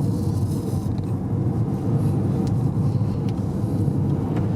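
A car in motion: a steady rumble of engine and tyre noise on the road.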